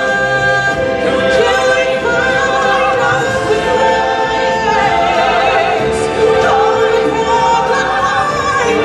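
Music of several voices singing together in long held notes, choir-like, sliding from one note to the next.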